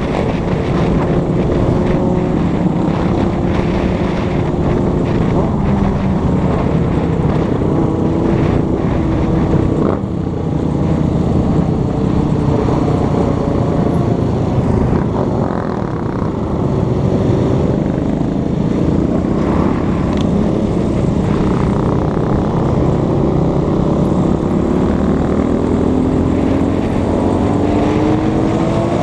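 TaoTao TBR7 250cc dirt bike engine running under way, its pitch shifting up and down with the throttle. Near the end the revs climb steadily as it accelerates.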